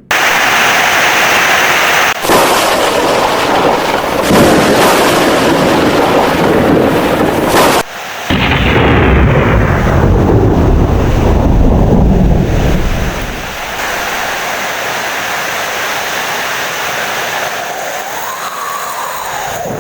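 Heavy rain with thunder. A long low rumble of thunder starts about eight seconds in and dies away after about five seconds, leaving steady rain.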